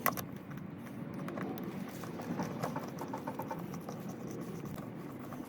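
Small clicks and scraping of hand-tool work on the hose clamp of a diesel fuel filter's line, with a quick run of ticks in the middle.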